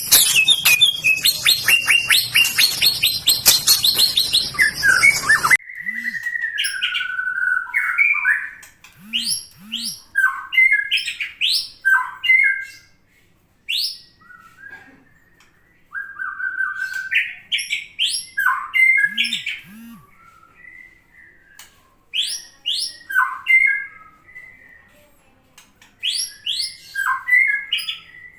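White-rumped shama singing: loud whistled phrases with fast upward sweeps, separated by short pauses. For the first few seconds a dense, rapid, high buzzing chatter is heard, and it stops abruptly.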